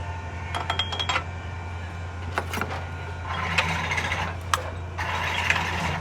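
Car workshop sounds: a steady low hum runs under a quick cluster of metal tool clinks about a second in, followed by two bursts of hiss in the second half.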